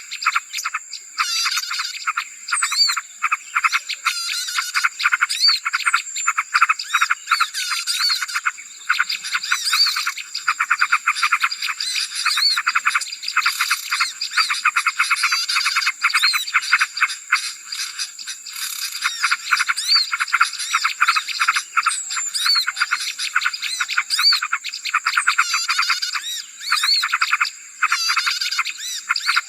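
Dense chorus of many small birds chirping and twittering rapidly at once, a noisy bird-lure call used to draw in small birds. A steady high whine runs underneath.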